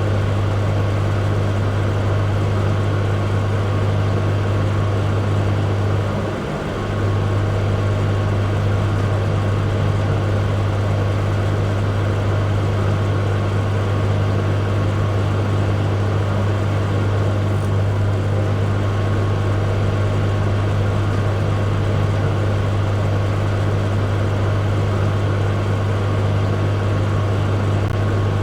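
Microwave oven running: a steady low electrical hum with fan noise over it, dipping briefly about six seconds in.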